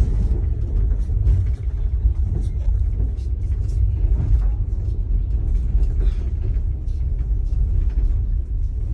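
Low, steady rumble of a moving passenger train heard inside a sleeper compartment, with scattered light clicks and rattles.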